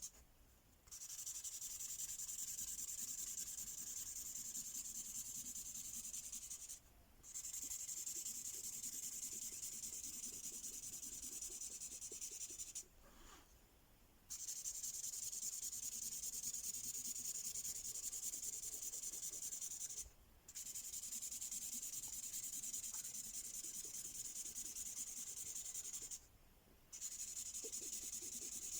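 Ink marker pen rubbing back and forth on paper, colouring in, as a steady scratchy hiss. It stops briefly five times, once for about a second and a half midway.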